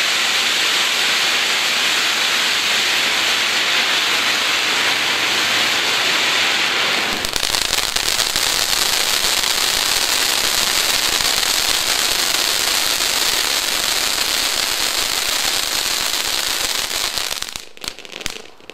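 Shivas Gold gold fountain firework spraying with a steady hiss, then about seven seconds in breaking into its crackle finish: a dense, rapid crackling that dies away near the end.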